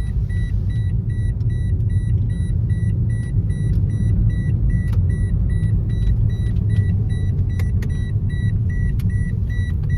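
Steady low rumble of a moving road vehicle heard from inside, with a high electronic beep repeating about twice a second.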